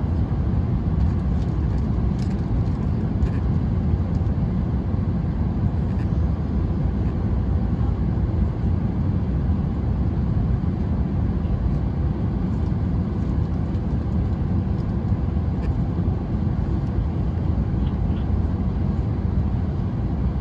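Steady low rumble inside an Airbus A321 passenger cabin, with a faint steady hum and a few light clicks.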